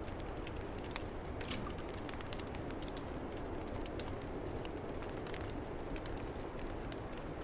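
Fireplace wood fire crackling with frequent small sharp pops, over a steady low rumble of snowstorm wind.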